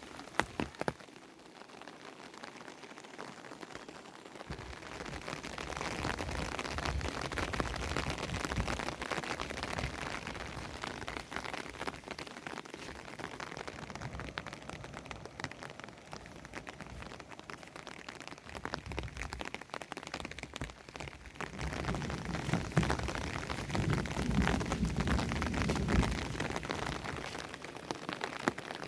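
Heavy rain falling steadily, a dense patter of drops that swells a few seconds in, with a low rumble rising near the end.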